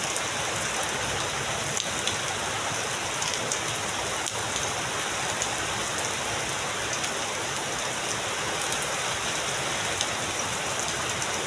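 Heavy rain falling steadily, a dense even hiss with the sharp ticks of single drops striking a surface scattered through it.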